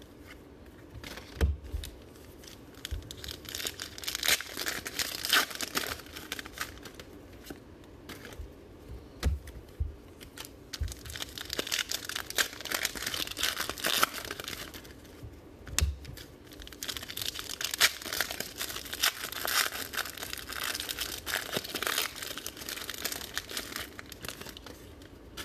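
Trading-card pack wrappers being torn and crinkled open by hand, in several long bouts with short pauses and a few sharp clicks, as the packs resist opening.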